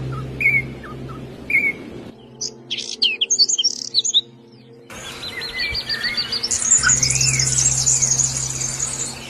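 Small birds chirping and calling in three short stretches that change suddenly. First come repeated short chirps about once a second. Then a burst of quick high chirps, and after a break a fast trill with rising and falling notes, loudest near the end, over a steady low hum.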